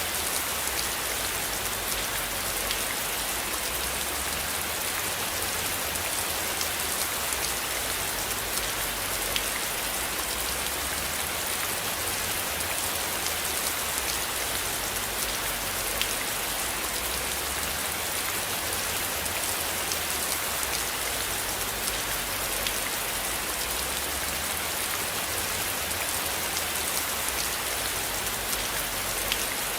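Steady rain falling, an even hiss with many scattered sharper drop taps, over a low rumble that swells and fades.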